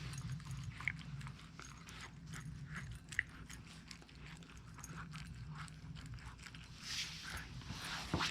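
Siberian husky chewing and crunching grilled mackerel, with irregular small crunches and clicks of teeth on fish and bone.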